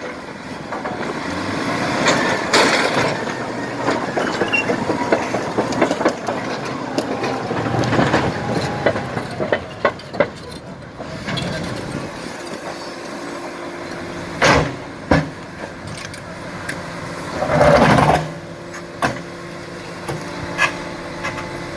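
Heavy earthmoving machine running steadily, with several loud knocks and clanks in the second half.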